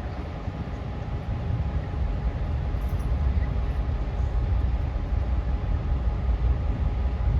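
Train running with a steady low rumble and a faint steady tone above it.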